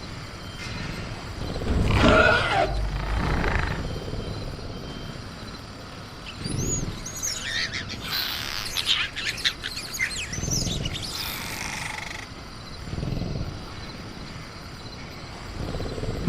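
Sound-effect velociraptor growling in a cage: a louder growling call about two seconds in, several low rumbling growls later, and a stretch of high gliding chirps and screeches in the middle, over a steady jungle night background.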